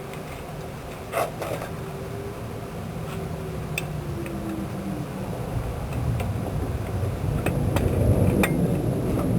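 Jet aircraft noise building in the background, a rumble that grows louder toward the end, with a tone sliding down in pitch a few seconds in. Scattered sharp clicks and knocks sound close by, the first about a second in.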